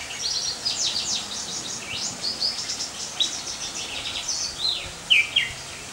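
Birds chirping: a busy run of quick, high repeated notes and short falling calls, with two louder falling calls about five seconds in.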